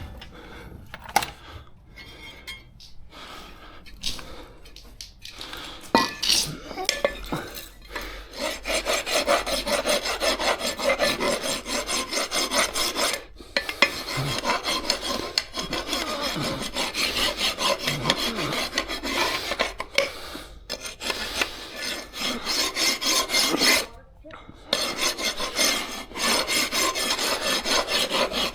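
Hand scraping or brushing on a car part: a tool rasped back and forth in quick strokes, about three to four a second, starting quietly and settling into a steady run with a few short breaks.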